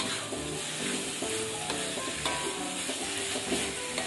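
Shredded chicken and ground chili paste sizzling and frying in hot oil in a wok, with light background music.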